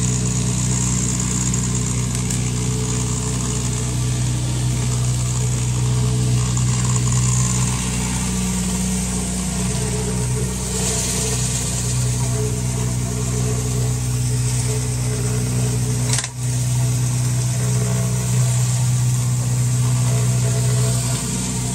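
Small gasoline engine running steadily at a constant speed, with a steady hiss over it and a very brief break about sixteen seconds in.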